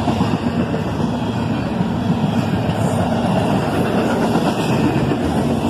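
Freight train's intermodal cars rolling past close by: a steady, loud rumble of steel wheels on the rails.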